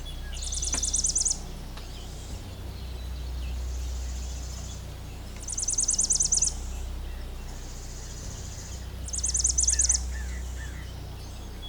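Outdoor grassland ambience: a high, rapid pulsed trill sounds three times, about a second each, over a steady low hum.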